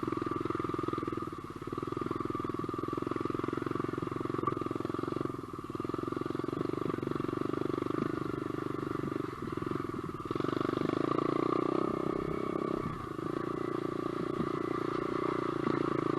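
SSR125 pit bike's single-cylinder four-stroke engine running as the bike is ridden, with the throttle easing off briefly several times.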